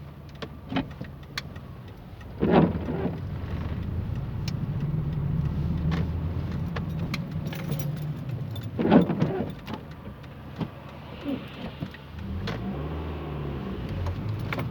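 Car driving on a wet road in rain, heard from inside the cabin: a steady engine and road hum with scattered ticks of raindrops. There are two louder swishes, about two and a half seconds and about nine seconds in, and a short shift in the engine's pitch near the end.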